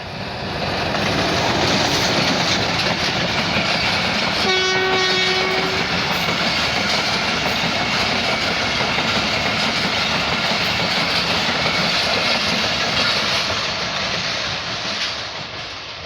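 A train running past, its noise building over the first two seconds, holding steady, then fading away near the end. About four and a half seconds in, the train's horn sounds one blast of about a second.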